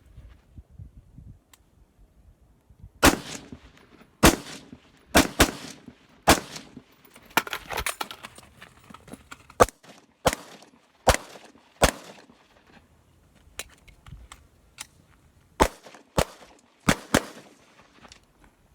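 Gunfire on a shooting range: a string of about seventeen sharp shots in singles, pairs and a quick burst of four, each with a short echo. There is a pause with only faint ticks before a last group of four shots near the end.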